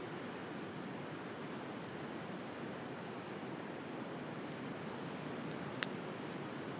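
Steady rush of sea surf with a wood bonfire crackling over it: faint scattered ticks and one sharp pop near the end.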